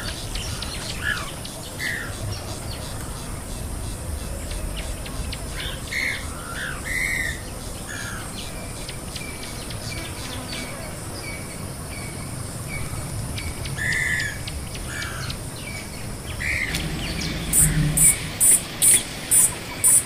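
Wild birds calling: short chirps and squawks scattered throughout, over a low steady rumble. Near the end comes a run of about six loud, sharp, high-pitched rasps, roughly two a second.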